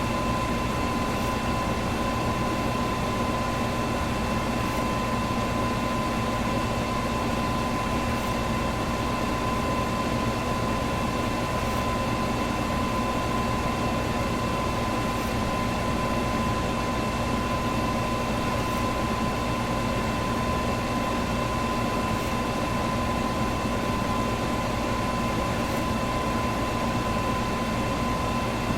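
Electric fan running steadily: an even rush of air with a low hum and a thin, steady whine. A faint high tick recurs about every three and a half seconds.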